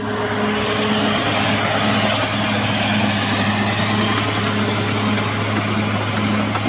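CAT D6R XL bulldozer's diesel engine running steadily under load, a low hum with a throb that swells and fades a little more than once a second over a rough mechanical rattle.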